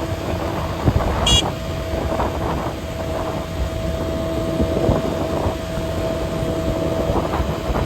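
Vehicle travelling along a road: steady road and engine noise with wind on the microphone, and a brief high tone about a second in.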